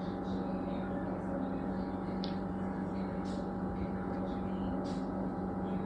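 Refrigerator giving off a steady low electrical hum, which the owner suspects comes from wiring damaged by hurricane debris.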